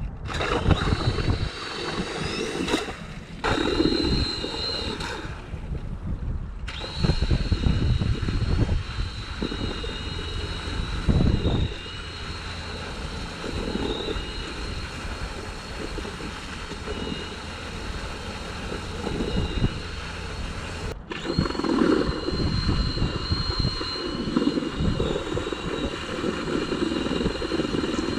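An engine running steadily with a high whine, broken off abruptly three times.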